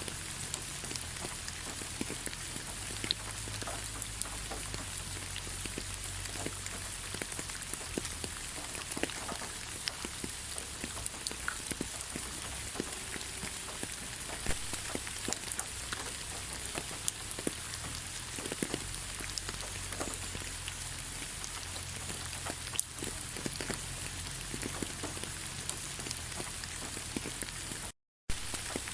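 Steady rain falling in a forest: an even hiss with many separate drops ticking close by and a low rumble underneath. The sound cuts out completely for a moment near the end.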